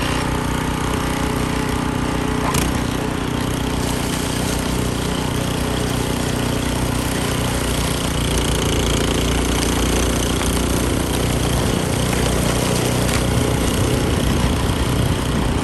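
Snow blower engine running steadily while clearing snow.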